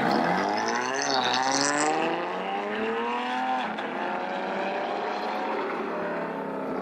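A car engine accelerating hard, its pitch climbing, dropping back briefly about a second in and again about three and a half seconds in as it shifts gear, then climbing again.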